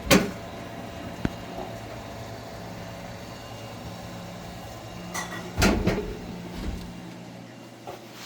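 Knocks and clatter from work on a commercial refrigerator: a sharp knock at the start, a click about a second in, and a burst of knocking around five to six seconds in, over a steady electrical hum.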